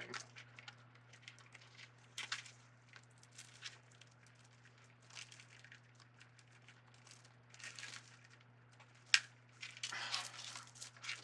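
Plastic deco mesh rustling and crinkling in scattered short bursts as it is handled and shaped, with one sharp click a little past nine seconds in, over a faint low steady hum.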